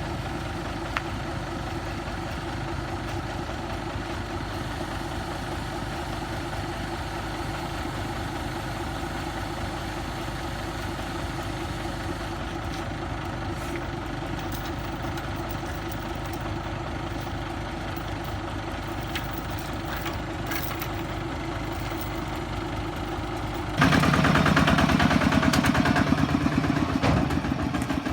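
Kubota ZT155 single-cylinder diesel engine running steadily. About four seconds from the end it suddenly gets much louder, as if revving or taking load, then eases back slightly.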